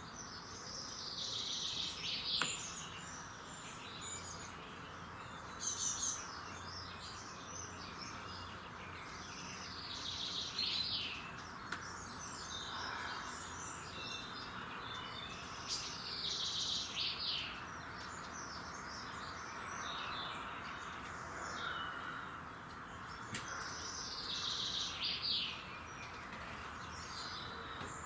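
Songbirds singing at dawn. One bird repeats a descending, trilled song phrase about every seven seconds, with other birds chirping between its phrases over a steady background hiss.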